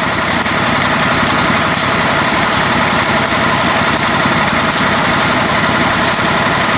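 Small engine of a lifted, modified riding lawn mower running steadily at a loud, even level.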